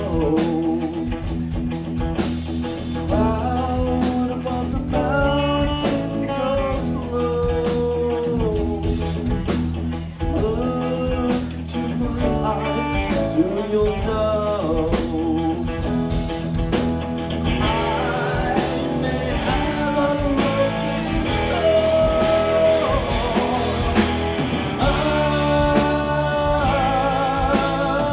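Live rock band playing a song with guitar, bass and drums, a wavering melodic lead line running over a steady beat.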